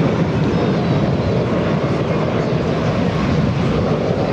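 Steady jet noise from the Red Arrows' BAE Hawk T1 jets during their aerobatic display.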